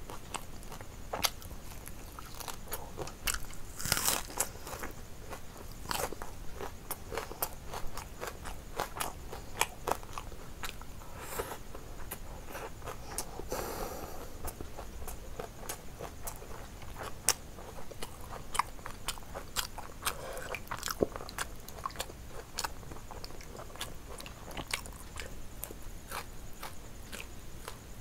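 A person chewing and crunching fried fish and fried chicken with rice, eaten by hand: many short, irregular crisp crunches and mouth clicks.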